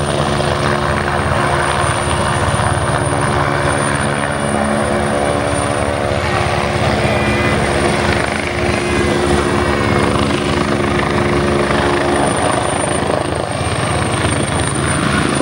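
Helicopter running steadily, the rotor blades chopping in a fast even beat under a continuous engine hum with a thin, steady high whine above it.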